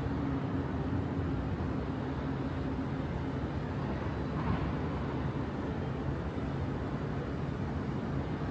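Steady low hum of a vehicle's motor running, holding one pitch under a constant rush of noise.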